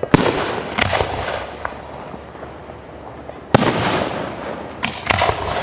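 Aerial fireworks shells bursting with sharp bangs: a pair in the first second, another about three and a half seconds in, and a quick double near the end, each trailing off in an echoing rumble.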